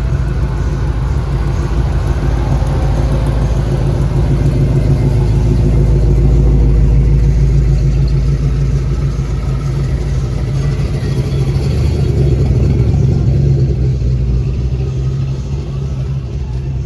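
Car engine running close by with a loud, steady low-pitched note; the deepest part of the sound drops away about two-thirds of the way through.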